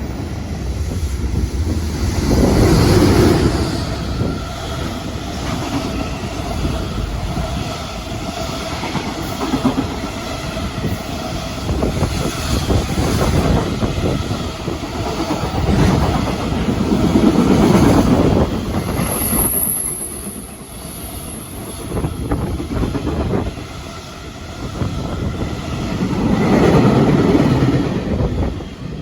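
Train passing through at speed, wheels clattering over the rails, its loudness swelling and easing three times, with a steady tone in the first half.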